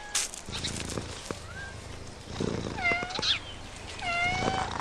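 Domestic cat meowing twice, a short call followed about a second later by a longer, steadier one.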